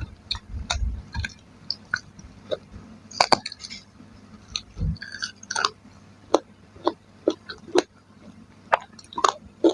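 Close-up mouth sounds of chewing chicken and tofu in curry: irregular wet smacks and clicks of the lips and tongue.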